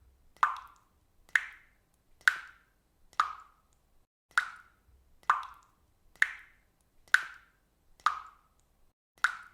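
Water dripping at a steady pace of about one drop a second, each drop a short, sharp drip with a brief ringing tail.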